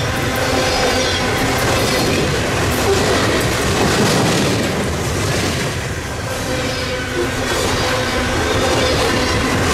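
Loaded coal hopper cars of a heavy freight train rolling past: a steady rumble of steel wheels on rail with clickety-clack over the joints and faint steady wheel squeal.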